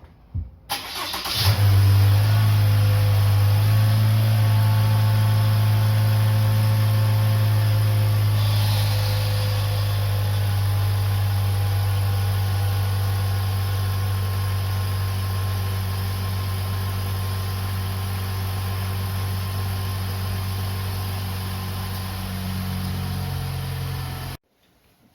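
Early 60-series Toyota Harrier starting on a cold morning, followed at once by a loud, steady low hum from the engine room that stops abruptly near the end. The owner takes this hum for a CVT noise; it appears only on the first cold start of the day, and the dealer replaced the CVT over it.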